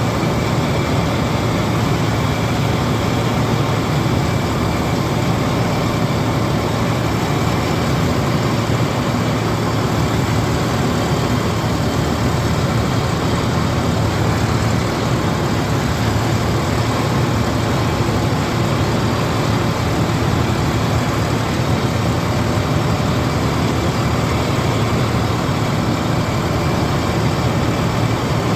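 John Deere 4WD combine harvester running steadily while harvesting paddy: a constant heavy engine drone with a faint thin whine above it.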